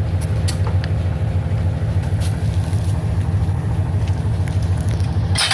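Locomotive engine running with a steady low rumble, a few faint clicks over it and a short hiss near the end.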